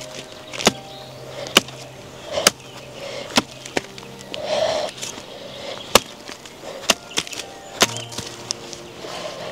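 A steady series of sharp strikes, about one a second.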